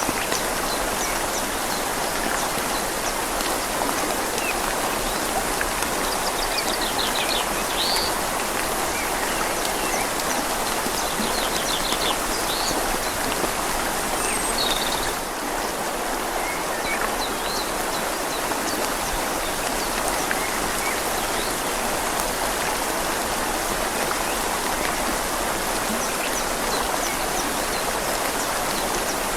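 Steady rain falling on leaves over the even rush of a flowing river. A few short, quick bird chirps come through in the first half.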